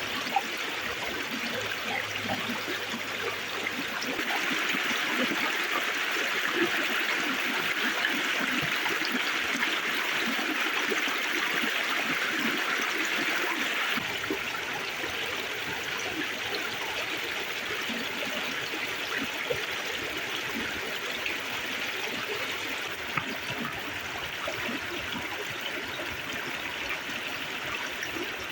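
River water flowing steadily, with small ticks and crackles scattered through it. The rushing grows louder about four seconds in and drops back a little about halfway through.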